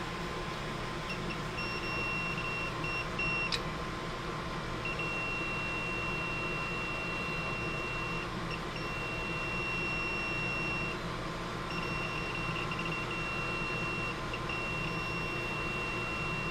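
Multimeter continuity beeper sounding in long, broken tones as the probes are held on the compressor's terminals and ground, with a sharp click about three and a half seconds in. The steady beep signals continuity to ground: the compressor is grounded.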